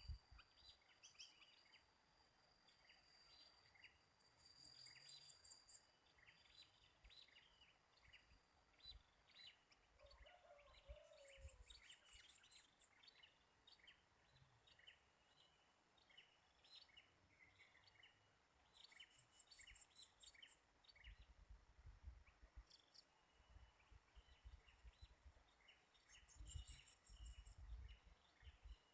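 Faint chorus of birds chirping, taken to be sooty-headed bulbuls (kutilang), with many short scattered notes. A quick, very high trill comes four times, about every seven seconds. Low rumbling bumps come in the second half.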